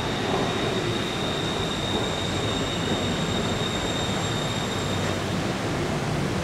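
A BTS Skytrain electric train pulls into the station and brakes to a stop, with a running rumble under a steady high-pitched whine that fades out about five seconds in as the train halts.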